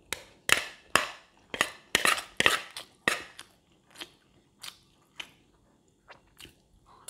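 Close-up chewing of crunchy fried rice with pork cracklings: a quick run of crunches in the first three seconds, then slower, softer ones.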